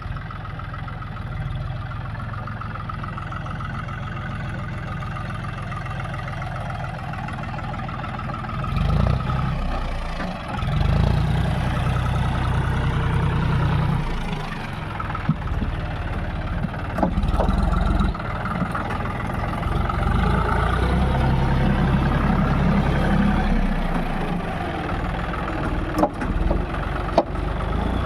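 John Deere 5050D tractor's three-cylinder diesel engine running, growing louder for a few seconds twice, with a few sharp clicks near the end.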